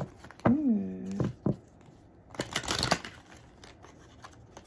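Deck of astrology cards being shuffled by hand: a short, dense rustle of cards about two and a half seconds in, after a few light card clicks.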